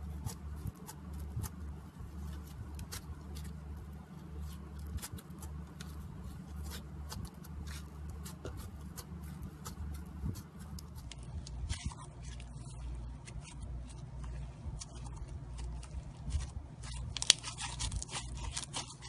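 Slime being squeezed and poked, with many small sticky clicks and pops over a low hum. The sound changes about halfway through as another slime takes over, and a louder burst of crackling pops comes near the end.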